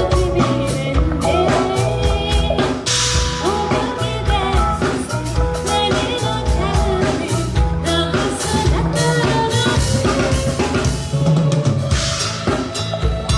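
Live band music: a drum kit keeps a steady beat with rimshots and bass drum under bass and a melody line.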